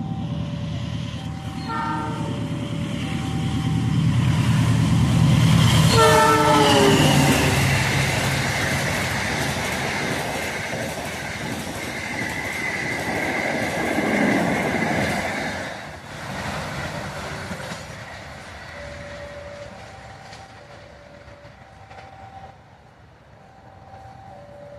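A train passes close by, its wheels and engine rumbling, with one horn blast about six seconds in that drops slightly in pitch as it goes by. An electronic level-crossing warning alternates two tones at the start and again as the train fades away.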